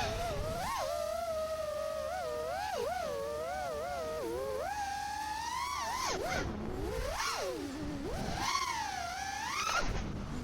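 FPV racing quadcopter's electric motors whining, the pitch constantly swooping up and down as the throttle is worked, with several deeper drops and climbs in the second half.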